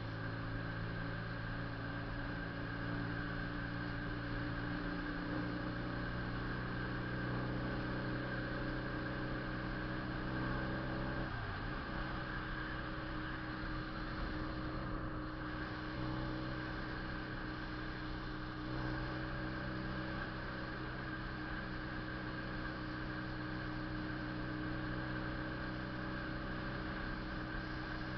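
Honda CB400 II motorcycle's air-cooled parallel-twin engine running at a steady speed under way, with a strong exhaust note. About eleven seconds in, the pitch briefly dips and comes back up, then holds steady again.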